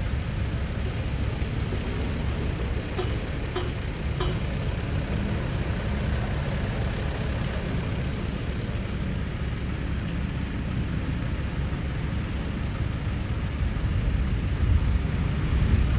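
Street traffic noise: a steady low rumble of passing cars and engines, getting louder near the end as a vehicle passes close by.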